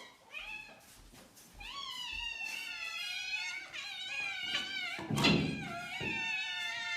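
A cat yowling in long, wavering, drawn-out cries, with a single thump about five seconds in.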